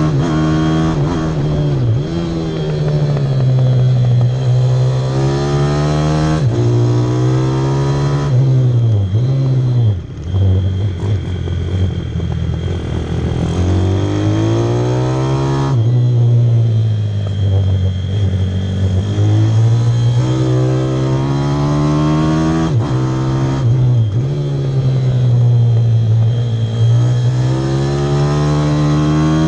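Pit bike engine ridden hard on track, its revs climbing and dropping over and over, with several sharp falls in pitch that then build back up.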